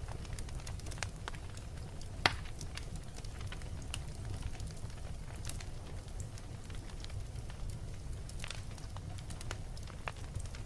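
Wood fire burning in a fireplace: irregular crackles and small pops over a steady low rumble of the flames, with one sharp, louder pop a little over two seconds in.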